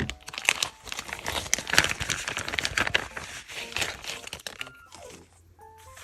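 Crinkling and rustling of paper or sticker sheets handled at close range, dense for about four and a half seconds and then dying away.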